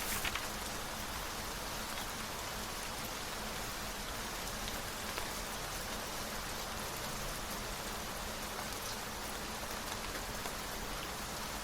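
Steady rain falling on a surface, an even hiss of drops. Right at the start there is a brief papery rustle, like a book page being turned.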